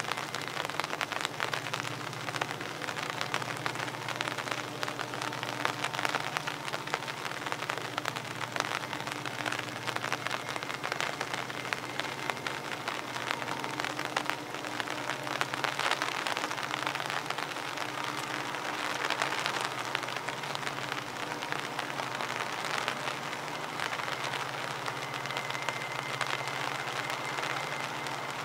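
Steady rain pattering, a dense crackle of drops, with a faint low steady hum underneath.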